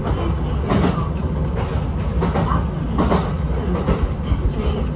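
Kintetsu express train running at speed, heard from inside its front cab: a steady rumble with the wheels clacking over rail joints about every three-quarters of a second.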